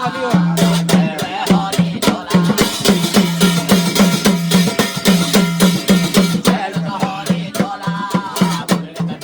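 Garhwali jagar folk music: a drum beating a fast, even rhythm, with a wavering melody line over it near the start and again near the end.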